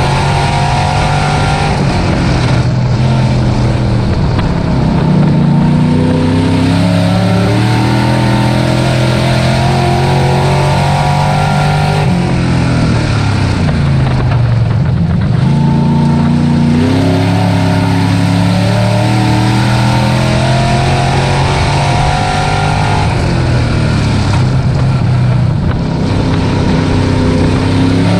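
Dirt-track race truck engine running hard, its pitch falling when the throttle is lifted and climbing again as it accelerates. Two deep lifts come about 4 and 15 seconds in, with shorter dips between them.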